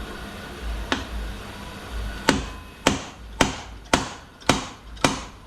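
Sharp, ringing metal hammer blows: one strike about a second in, then a steady run of six strikes, about two a second. This is the work of driving a part loose during the teardown of a Ford AOD automatic transmission, most likely the front pump being knocked out of the case.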